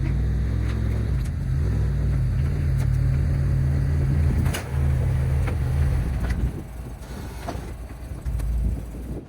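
Compact tractor's diesel engine running steadily, with a few sharp knocks over it. It quietens about six and a half seconds in.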